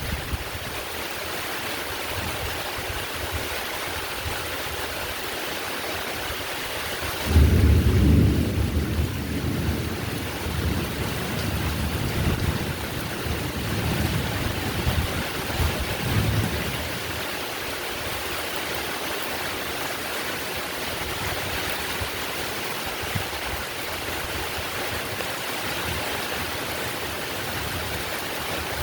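Heavy rain falling steadily, with a roll of thunder that breaks out suddenly about seven seconds in and rumbles away over the next ten seconds.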